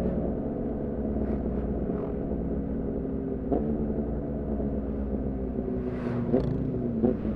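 2014 Yamaha R6 inline-four running through an aftermarket Leovince header and R9 titanium muffler, held at steady, moderate revs that ease slightly lower. There are a few short, sharp pops from the exhaust, one about halfway in and a couple near the end.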